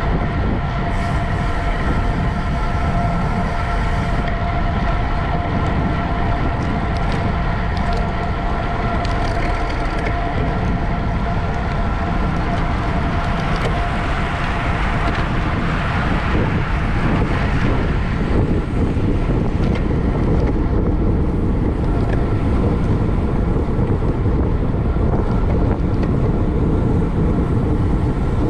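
Steady rush of wind over the microphone of a camera riding at racing speed, with road noise and a steady hum under it.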